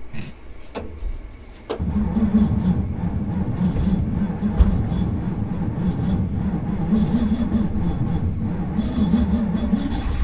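Old pickup truck's engine catching about two seconds in after a few clicks, then running steadily with a low, wavering drone.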